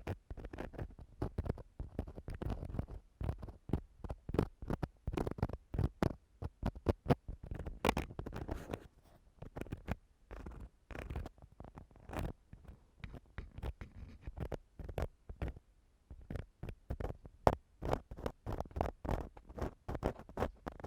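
Ear-cleaning tool scraping and rubbing inside an ear-shaped microphone: quick, irregular scratching and crackling strokes with short pauses.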